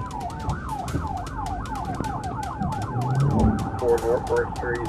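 Police siren on a fast yelp, a rising-and-falling wail about four times a second. About three and a half seconds in, a steady siren tone starts under it.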